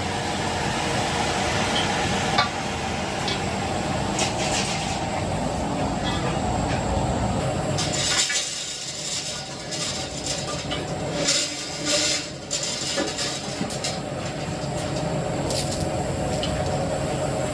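Workshop machinery running steadily, with scattered metallic clinks and knocks over a continuous hum.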